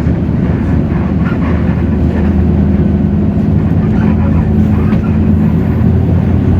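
Hino J08E-VN 7.7-litre diesel engine of a Hino RK8JRVA-KJF city bus running at a steady pitch, a low hum over road noise, heard from inside the bus.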